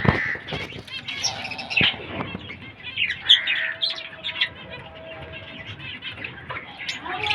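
Pet lovebirds chirping and squawking in quick, sharp calls, with a loud sharp knock at the start and another about two seconds in.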